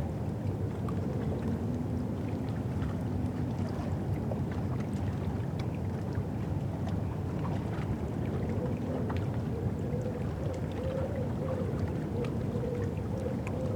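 Low, steady rumble of a boat's engine on the river, with a wavering hum that rises in pitch about two-thirds of the way through, and scattered small clicks of water lapping on the foreshore.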